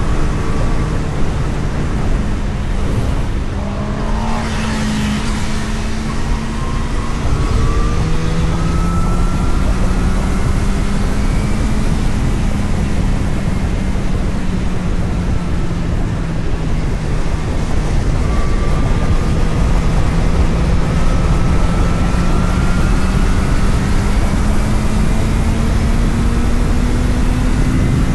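A road vehicle's engine running steadily under way, over heavy wind and road noise. The engine note rises slowly toward the end as it picks up speed.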